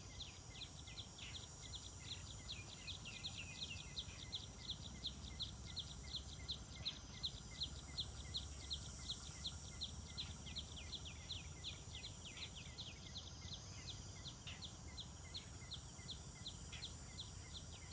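A bird calling over and over in a countryside ambience: short high chirps, about three a second, going on without a break. Underneath is a steady high insect-like hiss and a low rumble of wind.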